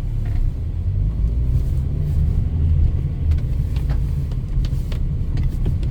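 A car driving, a steady low rumble of engine and road noise with a few faint light ticks.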